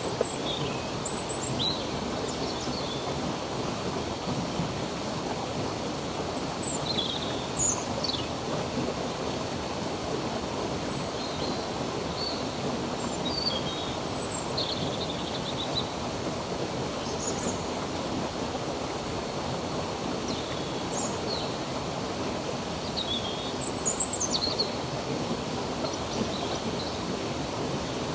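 Steady rushing of flowing stream water, with birds chirping in short, scattered calls over it.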